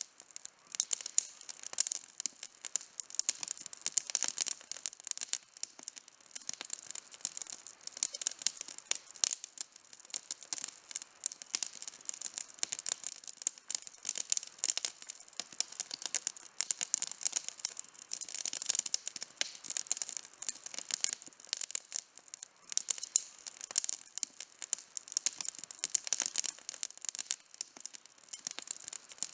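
Outdoor campfire burning, with dense, continuous crackling made of many small, sharp pops and snaps.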